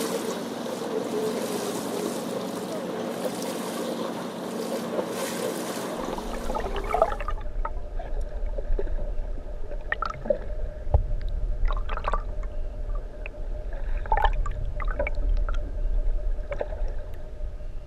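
A boat under way: a steady engine hum under wind and water noise. About seven seconds in, the sound changes abruptly to a low rumble with scattered knocks and clicks.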